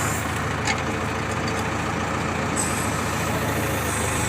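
Heavy diesel machinery engine running steadily, a JCB backhoe loader or tractor at work.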